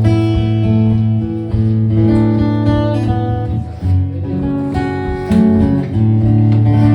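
Acoustic guitar strummed and picked in a song's instrumental introduction, with sustained chords.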